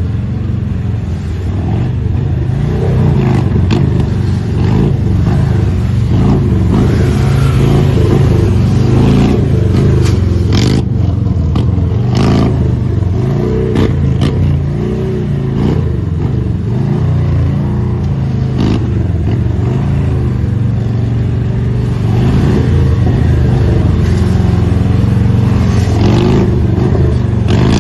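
Police motorcycle engines running at low speed, the throttle rising and falling as they ride, with scattered sharp clicks and clatter.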